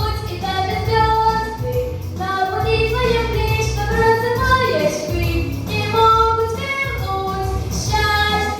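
A girl singing a melody with held notes over an instrumental backing track with a steady bass line.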